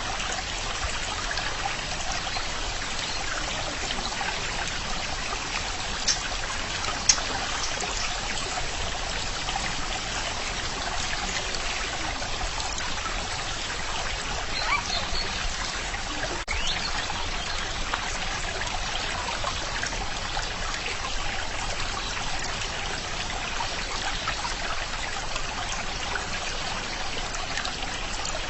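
Stream water running and trickling steadily, with two brief sharp clicks about six and seven seconds in.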